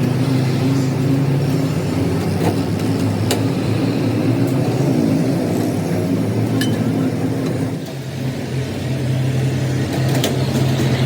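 An engine running steadily with a low hum, dipping briefly about eight seconds in, with a few sharp clicks or knocks over it.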